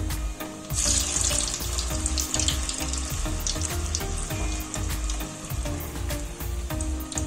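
Ulli vada batter dropped into hot oil and frying. A burst of sizzling about a second in settles into steady bubbling and crackling.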